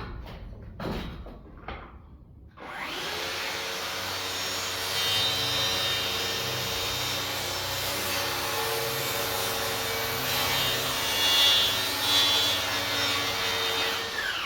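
Power saw running and cutting through a wooden floor joist to trim it shorter. It starts about two and a half seconds in after a few light knocks, runs for about twelve seconds with the motor's pitch dipping slightly under load, and stops just before the end.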